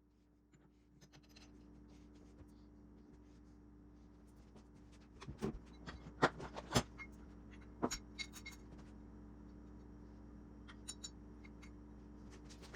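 Scattered light clicks and scrapes of tools and metal parts being handled during an engine rebuild, with a cluster of sharper knocks around the middle, over a steady low hum.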